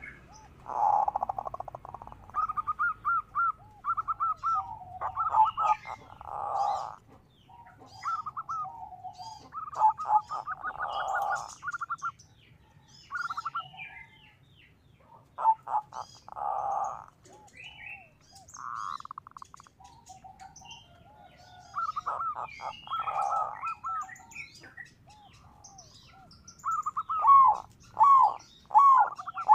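Zebra dove (perkutut) cooing in repeated phrases of quick, rippling notes with short pauses between them, under fainter, higher chirps of small birds.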